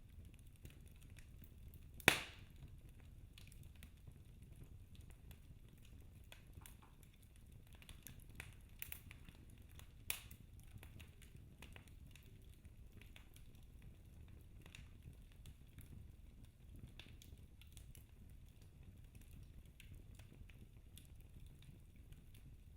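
Wood fire burning in a fireplace: a low steady rumble with scattered small crackles, a sharp pop about two seconds in and another about ten seconds in.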